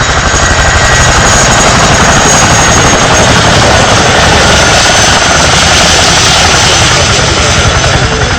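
Boeing CH-47 Chinook twin-rotor helicopter running loud and close, its tandem rotors beating in a fast steady pulse over a thin high turbine whine.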